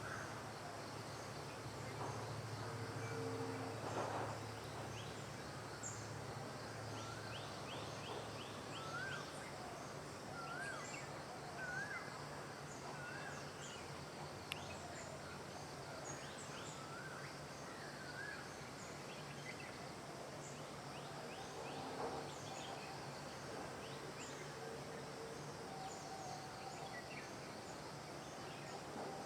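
Several wild birds calling in woodland: a short rising-and-falling whistled note repeated about once a second through the middle, and runs of quick high notes, over a steady low background hum.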